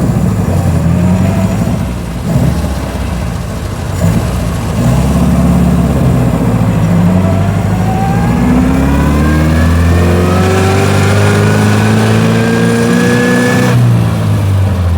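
1924 Austin Seven's small four-cylinder side-valve engine heard from inside the cabin, pulling through a gear with the pitch rising steadily and a whine climbing with it from about eight seconds in. Near the end the revs drop off suddenly, as for a gear change in its non-synchromesh gearbox.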